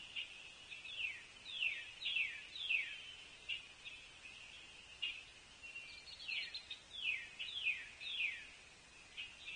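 A songbird singing two phrases of clear downslurred whistles, about two notes a second, over a steady high chorus of distant birds or insects.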